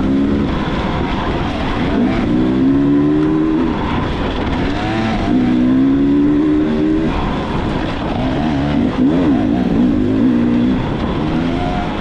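Dirt bike engine running under load, its pitch climbing and dropping again several times as the throttle is opened and closed.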